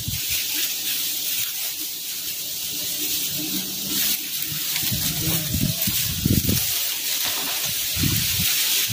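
Strong wind rushing through the trees, with gusts buffeting the microphone several times in the second half.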